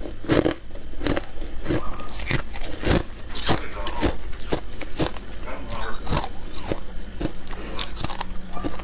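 Close-miked biting and chewing of freezer ice and frost: a run of crisp, irregular crunches, about two or three a second.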